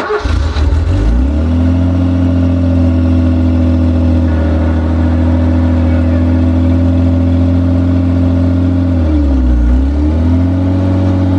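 BMW E28's engine starting and then running steadily, its pitch rising as it catches and settles within the first second or two. About nine seconds in the revs dip briefly and recover.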